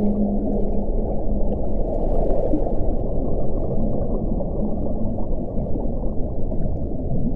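Strong wind blowing in a deep, rumbling rush, with a low howling tone that fades out after about a second and a half. A brief gust hiss rises around two seconds in.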